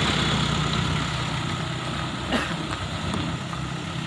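Dump truck engine idling steadily, with one short knock about two and a half seconds in.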